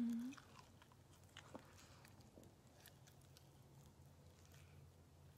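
Faint chewing and wet mouth clicks as a person bites and eats a chicken wing dipped in ranch, after a short low hummed "mm" at the very start.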